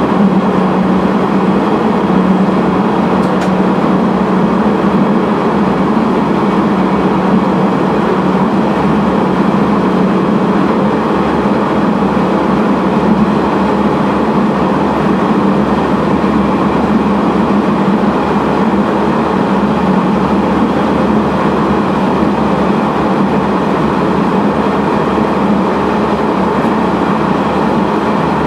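Sanriku Railway Type 36 diesel railcar running steadily through a tunnel: a constant low engine drone under the noise of the wheels on the rails.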